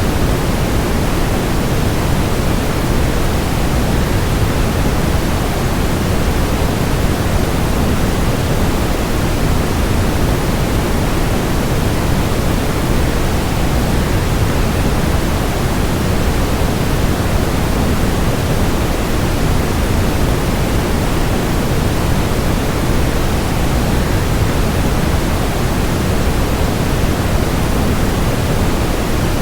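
Steady, unchanging rush of a waterfall, a dense even noise weighted toward the low end.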